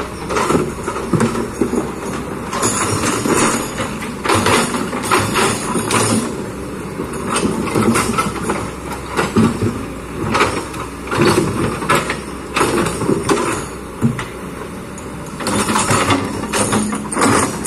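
Kobelco hydraulic excavator working: the engine runs steadily under load while the steel bucket clanks and scrapes against rocks and earth in frequent irregular knocks.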